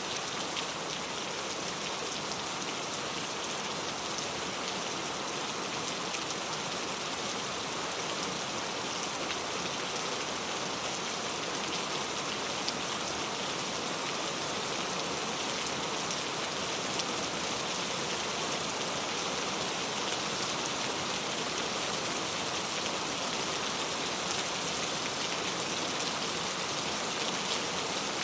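Steady rainfall, many drops pattering on surfaces, heavy and even with no let-up.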